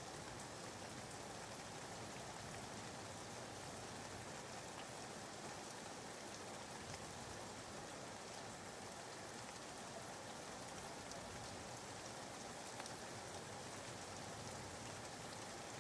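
Soft, steady rain ambience used as background white noise, an even hiss of rainfall with faint drop ticks.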